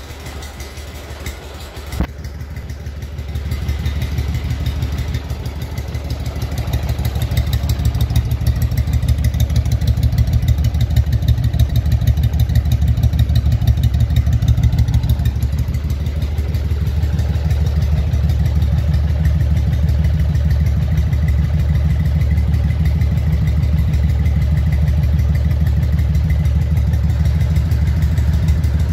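1985 Yamaha Virago V-twin idling on straight pipes with an Akrapovic end can, its exhaust giving an even, pulsing beat. A sharp click comes about two seconds in, the exhaust grows louder over the next several seconds, and it runs steady through the second half.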